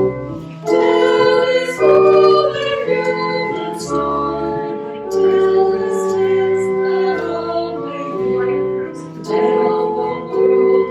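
A hymn sung with church organ accompaniment: sustained notes and held bass tones that change roughly every second.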